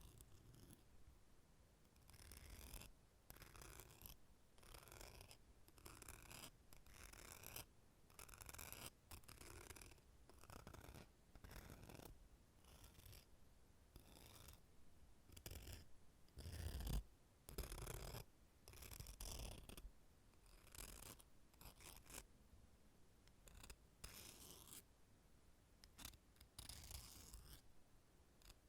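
Nail clippers worked close to the microphone for ASMR: a long run of soft, crisp clicks and scrapes, about one or two a second, with one louder low thud about two-thirds of the way through.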